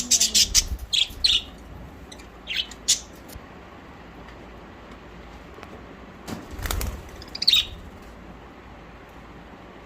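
Pet budgerigars chirping in short, high bursts: a cluster in the first second and a half, a few around three seconds, and more near seven seconds. A low fluttering rumble comes with the chirps near seven seconds.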